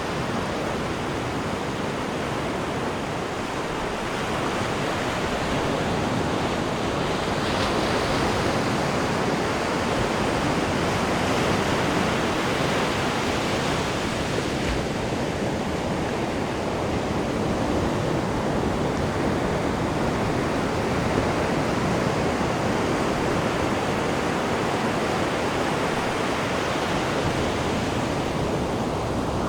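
Steady rush of churning water in a cruise ship's wake off the stern. It swells slightly in the middle.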